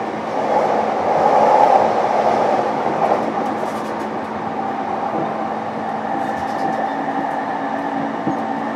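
Running noise inside a JR East E233-7000 series Saikyo Line electric train between stations: a steady rumble of wheels on rail with a faint steady hum and a few faint clicks, a little louder between about half a second and three seconds in.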